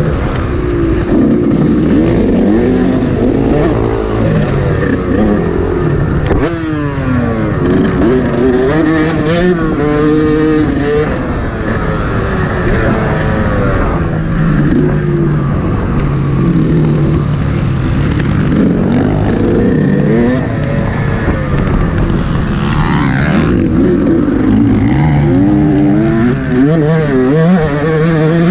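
Yamaha YZ125 two-stroke motocross bike engine being ridden hard, revving up and down repeatedly, its pitch climbing and dropping through gear changes.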